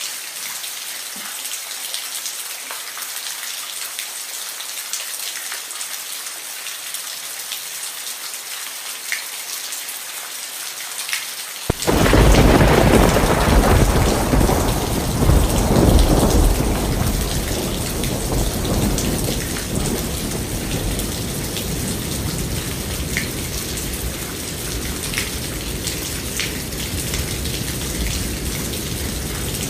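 Thunderstorm: steady heavy rain, then about twelve seconds in a thunderclap breaks in suddenly and turns into a long deep rumble that slowly fades under the rain.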